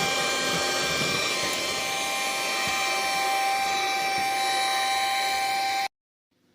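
Vacuum cleaner running steadily with a high motor whine, sucking up escaped ants, then cutting off abruptly near the end.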